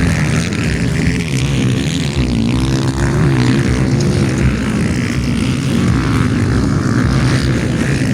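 Motocross dirt bike engines running and revving in a continuous loud drone, their pitch wavering up and down.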